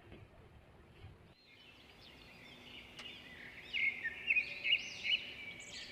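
Birds chirping: many quick repeated chirps after a second or so of near silence, growing louder about halfway through.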